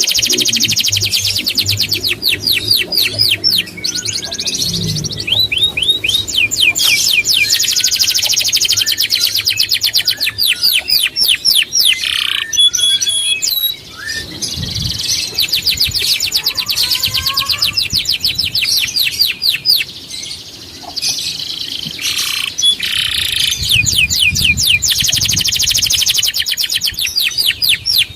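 Songbird singing long, rapid trills of repeated high sweeping notes, in runs of a few seconds with short breaks between them.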